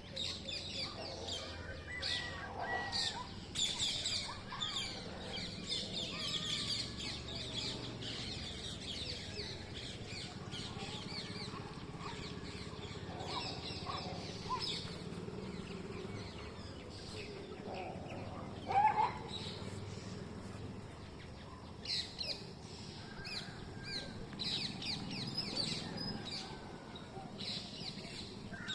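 Green parrots calling from a tree: a busy run of short, high squawks and chirps, with one louder, lower call about two-thirds of the way through.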